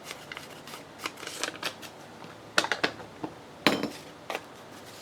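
Paper being handled: scattered rustles and a few sharp clicks or snips, the loudest about two and a half and three and a half seconds in.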